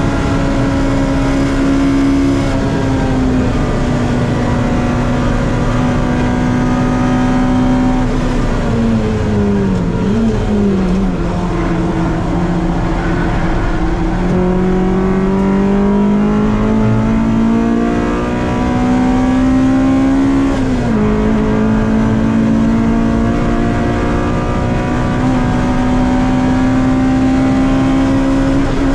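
Honda Civic's B-series VTEC four-cylinder race engine heard from inside the cabin, pulling at high revs. The revs fall for two or three seconds about eight seconds in, climb slowly for about ten seconds, drop sharply once at a gearchange about 21 seconds in, then rise again.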